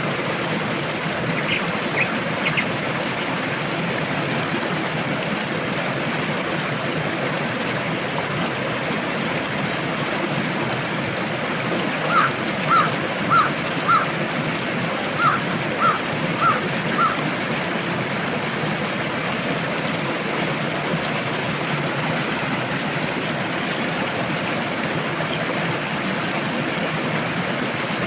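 Steady rush of a river's flowing water. About halfway through, a bird gives two runs of four short, evenly spaced calls, the loudest sounds here, and a few faint chirps come near the start.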